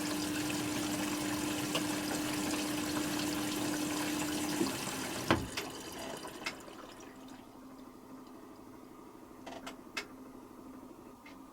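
Hoover Quattro Easylogic AE130 washing machine filling with water through its inlet valve: a steady rush of water with a humming tone. It cuts off about four and a half seconds in, followed by a sharp knock. After that the machine is much quieter, with a few light ticks.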